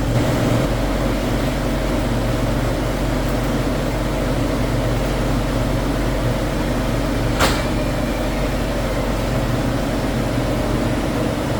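Steady drone of factory machinery with a low, even hum, broken once by a sharp click about seven and a half seconds in.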